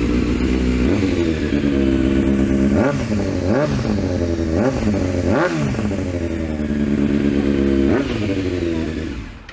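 Motorcycle engine through a newly fitted BlackWidow aftermarket exhaust, baffle still in, idling with about six quick throttle blips, then switched off near the end.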